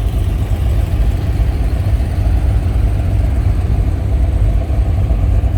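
Car engines idling and rolling slowly past, a steady low rumble.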